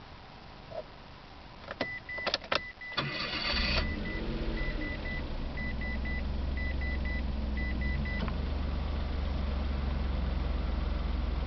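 Mitsubishi i kei car being started: a few clicks, a short burst of starter cranking about three seconds in, then the three-cylinder engine catching and idling steadily. A high warning chime beeps repeatedly, in pairs, until about eight seconds in.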